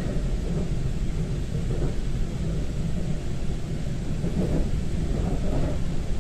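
Taiwan Railway train running, heard from inside the carriage: a steady low rumble of wheels and motors on the track.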